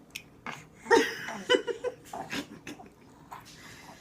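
A quick series of short animal sounds, the loudest about a second in.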